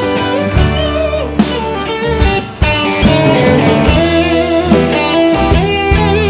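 Live rock band playing an instrumental break: an electric guitar lead with bending notes over drums and bass.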